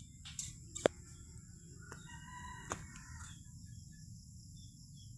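A rooster crows once, starting about two seconds in, over a steady high chirring of insects. A sharp click sounds a little before the crow and is the loudest moment.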